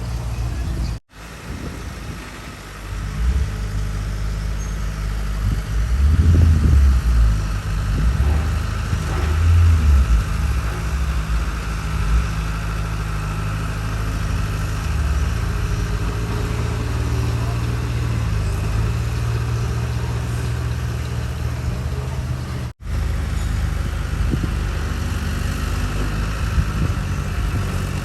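Heavy diesel engine of earthmoving machinery running with a steady low drone, pulling harder and louder for a few seconds about six to ten seconds in. The sound cuts out for an instant about a second in and again near the end.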